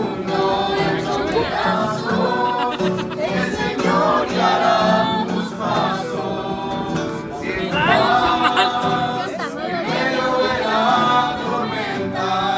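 A group of voices singing a Spanish-language worship song together.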